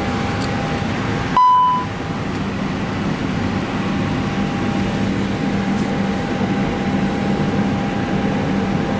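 Steady airport ramp and cockpit noise through an open flight-deck window, with a thin steady high tone in it. A short, loud electronic beep sounds about one and a half seconds in.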